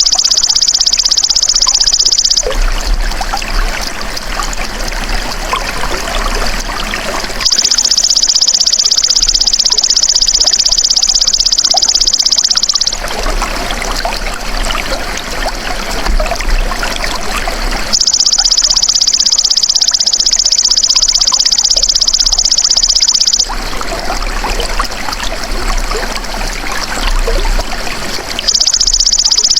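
Belalang emas (golden grasshopper) trilling in a dense, high-pitched buzz that lasts about five seconds at a time and comes four times, alternating with stretches of trickling, splashing water.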